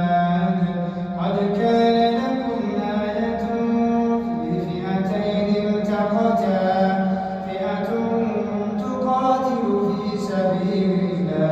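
A man's voice chanting Quran recitation melodically, drawing out long held notes that step between pitches.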